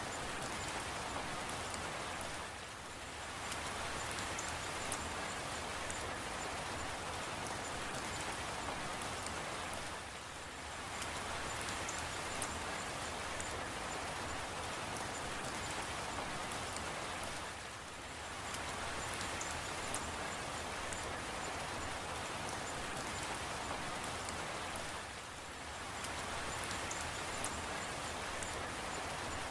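Steady rain: an even hiss of rainfall with scattered drop ticks, softening briefly four times, about every seven and a half seconds.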